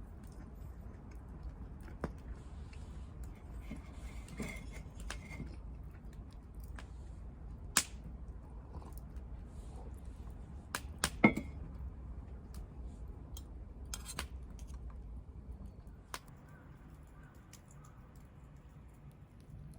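Scattered sharp clicks and light knocks over a low steady rumble, with two louder clicks about eight and eleven seconds in.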